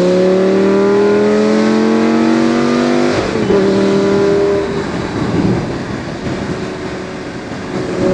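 Lamborghini Gallardo's 5-litre V10 engine accelerating hard, its note climbing steadily in pitch. About three seconds in there is an upshift: the pitch drops, the engine pulls briefly in the next gear, and then it eases off to a quieter, rougher note.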